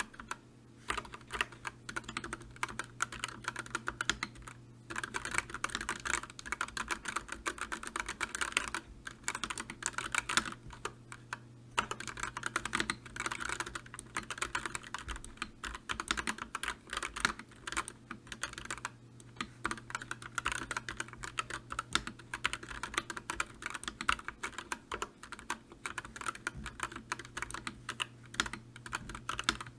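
Continuous fast typing on a computer keyboard: a dense run of key clicks with brief pauses every few seconds, over a faint steady low hum.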